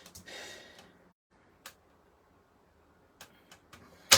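Paper trimmer cutting designer paper: a brief scraping swish of the blade in the first second, then a few light clicks and one sharp click near the end as the trimmer and paper are handled.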